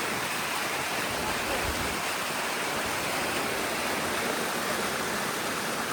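Steady, even rush of flowing water, like a waterfall or fast stream, with no change in level.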